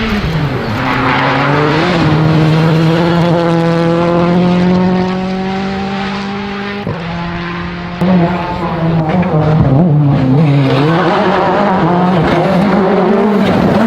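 World Rally Car's turbocharged engine at high revs, its pitch held nearly steady for several seconds. After an abrupt change about eight seconds in, the revs rise and fall quickly.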